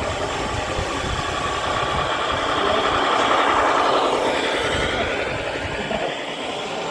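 Engine-like vehicle noise that swells to its loudest around the middle, with a brief falling pitch, then eases off.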